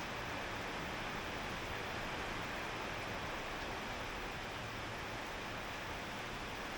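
Steady rain, an even hiss with no separate drops or thunder standing out.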